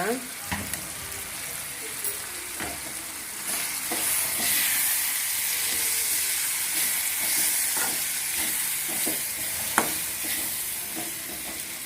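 Onion-tomato masala with spice powders and herbs sizzling in a frying pan while it is stirred. A steady frying hiss runs under scattered scrapes and knocks against the pan.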